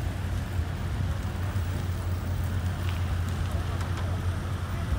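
Classic American cars rolling past at walking pace, their engines running with a steady low rumble.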